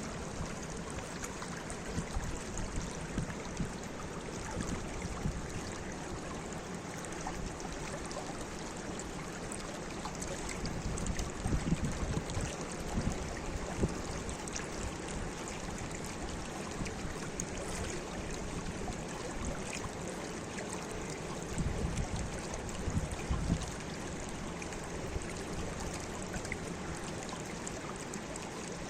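Steady rush of running water, like a stream, with a few louder low rumbles about twelve and twenty-two seconds in.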